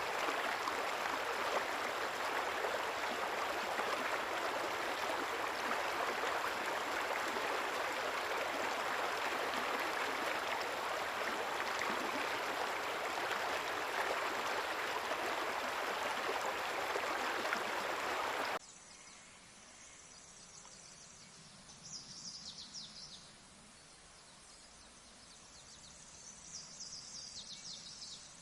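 Steady rushing water like a stream, cutting off suddenly about two-thirds of the way through to quiet outdoor ambience. In the quiet part, two short runs of high chirps come a few seconds apart.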